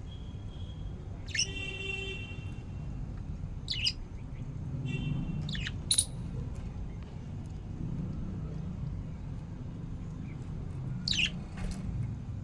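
Budgerigars chirping: a handful of short, sharp chirps scattered through, with two longer buzzy calls, one about a second and a half in and one around five seconds in, over a steady low background rumble.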